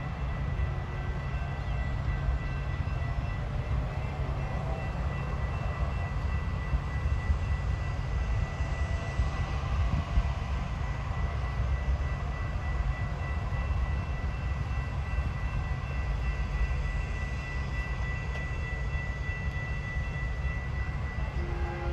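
RTD A Line electric commuter train rumbling steadily at a grade crossing, with a thin, steady high ringing tone over it. Near the end the train's horn begins to sound.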